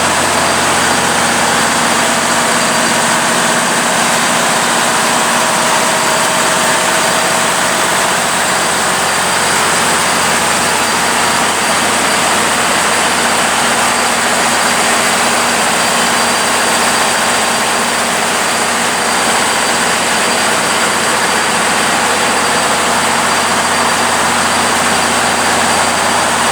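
Engine-room machinery running: a loud, steady drone with a constant low hum and a thin high whine over it.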